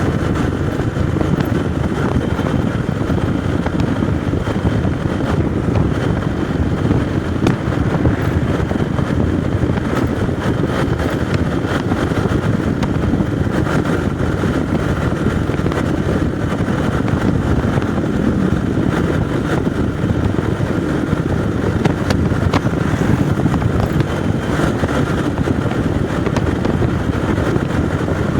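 Motorcycle riding along at a steady speed: a continuous engine and road rumble, with wind noise on the microphone.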